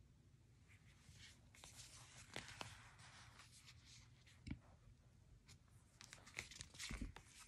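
Faint rustling of paper and light taps and clicks as a picture book is handled, with a couple of soft low thumps.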